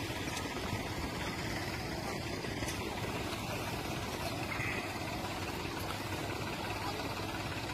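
Vehicle engines idling steadily, a constant even noise with no revving.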